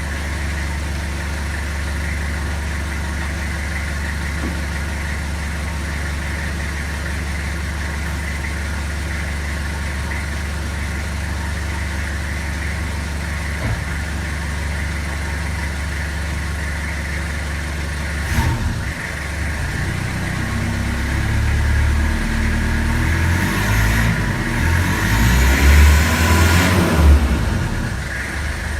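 Toyota Hilux pickup engine idling steadily. From about two-thirds of the way through, it revs up and down unevenly and grows louder, the engine working to pull the truck up onto a step.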